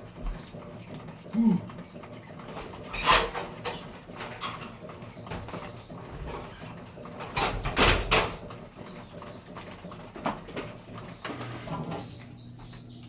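A steady low machine hum with sharp knocks and clatter, the loudest about three seconds in and a cluster around eight seconds, and a short rising squeak about a second and a half in.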